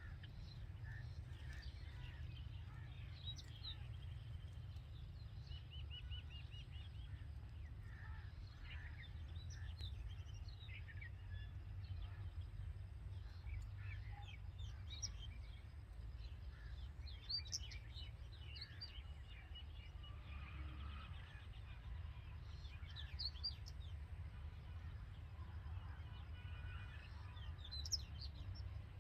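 Red-vented bulbuls chirping at the nest: many short, scattered chirps and brief trills over a steady low rumble.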